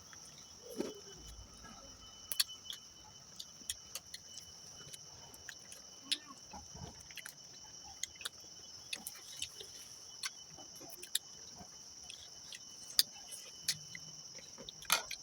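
Close-up eating sounds: irregular wet clicks and smacks of someone chewing a meal of boiled duck meat and rice, a few louder snaps among them. A steady high insect chirring runs underneath.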